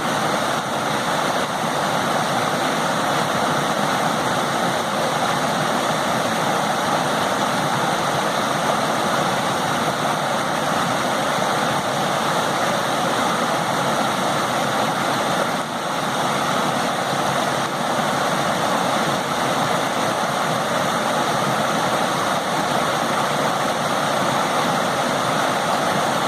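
Forest river stream running fast, a steady, even rush of water.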